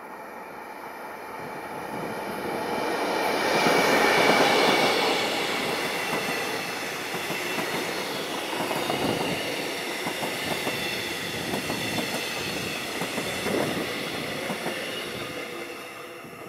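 A train passing close by: it comes in louder to its peak about four seconds in, then the cars run past with a fast, uneven clatter of wheels over the rails, fading near the end.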